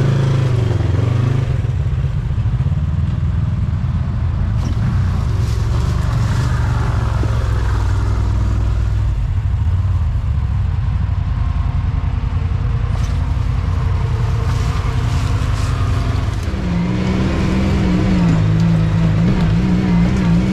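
Off-road vehicle's engine running steadily as it drives along a trail, its pitch shifting with the throttle and rising about 16 seconds in.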